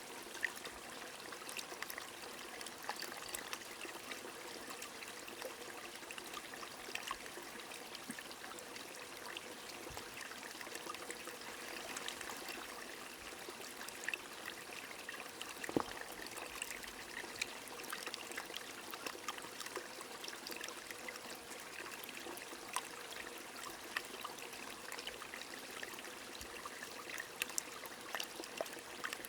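A stream trickling and flowing under steady rain: a constant water hiss dotted with many small drip ticks.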